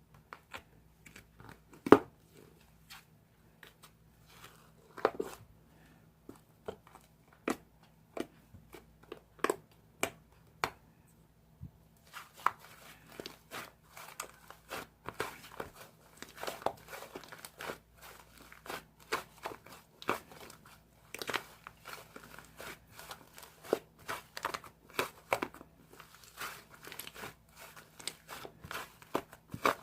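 Slime worked by hand, giving sticky clicks, pops and crinkly crackles. The clicks come one at a time at first and run together into a steady crackling a little before the middle.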